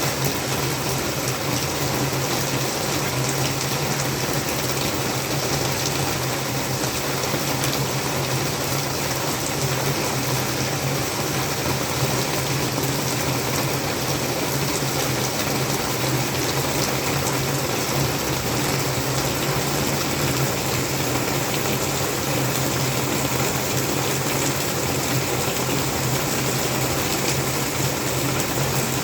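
Heavy rain falling steadily in an even, unbroken hiss, with scattered faint drop ticks and a steady low hum underneath.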